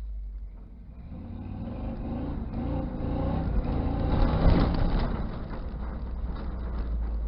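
1983 Chevy C10 pickup's engine revving hard during a burnout, the sound building from about a second in to a peak around four and a half seconds in, then easing off.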